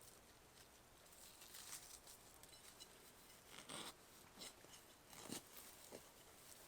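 Near silence broken by faint, scattered rustling and scraping, with a few short scrapes a little before and after the middle.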